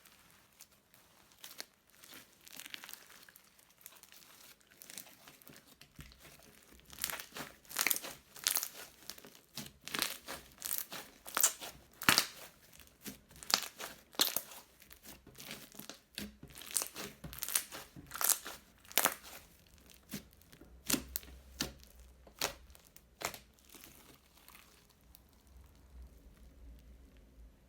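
Crunchy slime being squeezed and pressed by hand, crackling and popping in rapid sharp bursts that thicken about a quarter of the way in and die away near the end.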